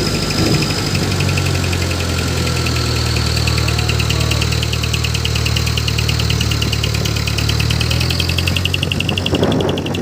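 Dump truck's diesel engine running steadily, with a rapid, even, high-pitched pulsing over it from about two seconds in.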